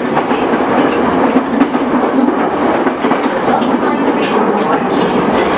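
JR East E217 series electric commuter train running, a steady loud rumble of wheels on rail with some clickety-clack.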